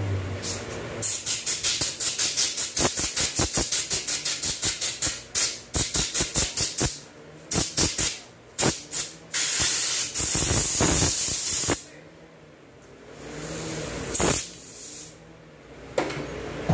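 Compressed-air blow gun hissing in rapid short bursts, about three a second, for several seconds, then a few spaced blasts and one long blast of about two and a half seconds, with another short blast near the end.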